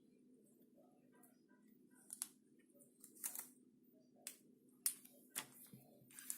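Scattered short sharp clicks, about seven, mostly in the second half, made by a pet parrot, over a faint steady hum.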